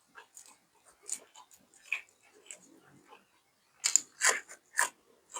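Close-up mouth sounds of a person eating: irregular crunching and chewing bites, loudest in a quick run of crunches near the end.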